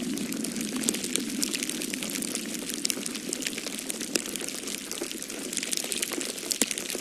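Wood fire crackling in a fireplace, a dense run of small sharp pops and snaps, over a steady low whoosh of storm wind.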